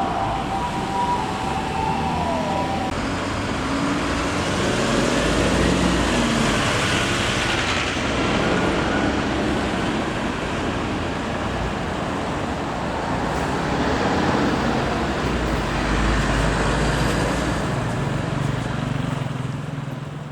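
Fire engine on an emergency run in traffic: its siren sounds steady tones that drop away about three seconds in, leaving engine and road noise.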